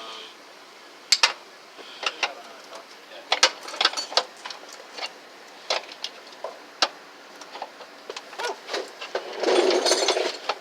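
Hand tools working on car bolts: irregular metal clicks and clinks, as of a ratchet worked in short strokes, with a longer, louder scraping rustle near the end.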